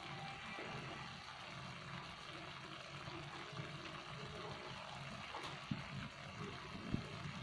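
Shrimp cooking in bubbling butter sauce in a wok, a steady sizzle. Two soft knocks come near the end.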